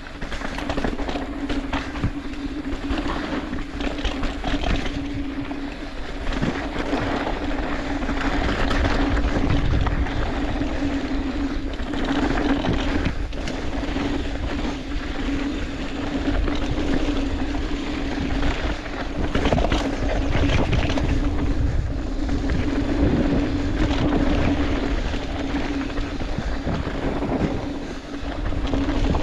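Riding down a ski slope: edges scraping and hissing over the snow in uneven swells, with wind rushing over the microphone and a steady low hum throughout.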